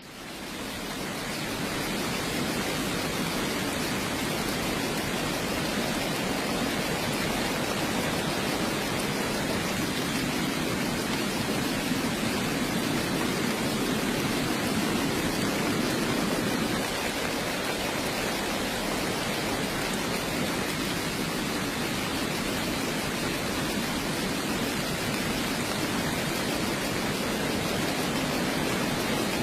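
Steady heavy rain, an even unbroken hiss with a low rumble, fading in over the first couple of seconds.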